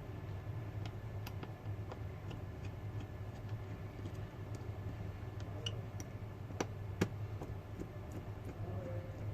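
Scattered small clicks and taps of hand tools on a smartphone being taken apart, the sharpest two about seven seconds in, over a steady low hum.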